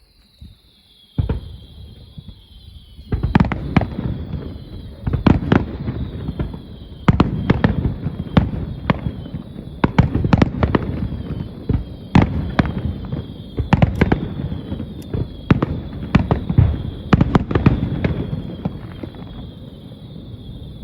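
Fireworks barrage: a single report about a second in, then from about three seconds a rapid run of shell bursts, several a second, over a continuous low rumble.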